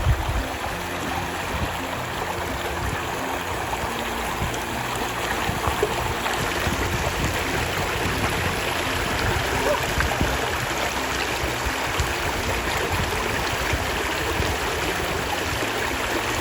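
Waterfall water rushing and splashing steadily, heard close. One brief thump at the very start.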